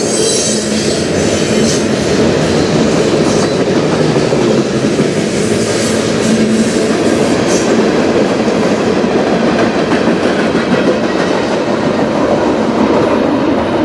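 Freight train cars rolling past on the rails with a loud, steady rumble of wheels on track.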